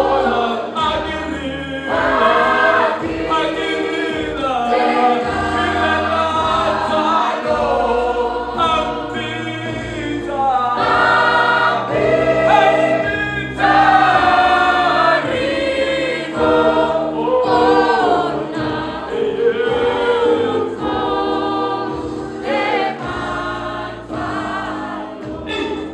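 A choir singing a gospel song over an instrumental accompaniment.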